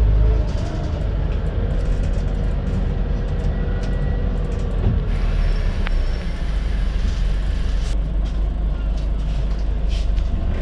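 Scania N94UD double-decker bus with a ZF automatic gearbox, heard on board: the diesel engine runs with a low drone and a faint gearbox whine over it. The engine note drops about half a second in as the bus eases off, and there is a single click about six seconds in.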